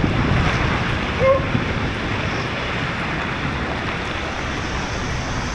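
Steady rush of water and air against the microphone while riding down a water slide.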